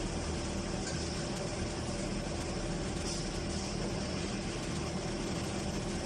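Steady hum and hiss of a CNC induction hardening machine working on a crankshaft, a low drone with a few held tones under even noise, with short high hisses about a second and about three seconds in.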